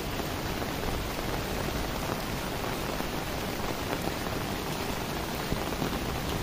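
Steady heavy rain falling, heard from under an umbrella.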